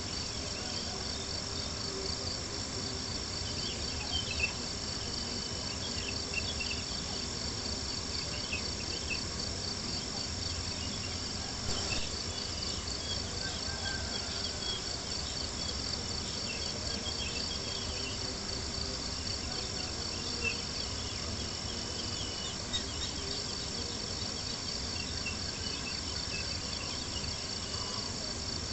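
Crickets chirping continuously in a steady, fast-pulsing trill, over scattered soft crackles and a few sharper pops from a campfire.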